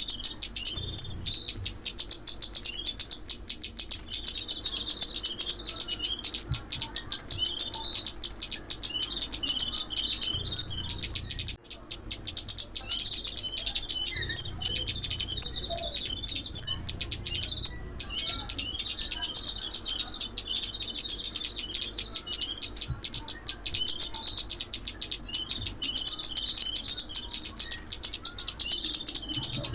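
Sunbird song played as a trapping lure: rapid high-pitched twittering in repeated phrases, with two brief breaks.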